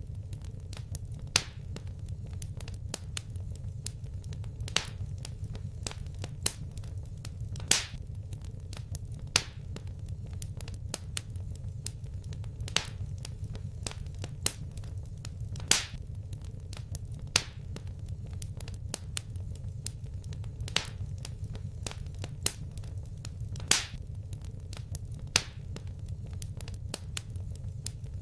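Fireplace fire crackling: sharp, irregular pops, a loud one every second and a half or so with fainter ticks between, over a steady low rumble.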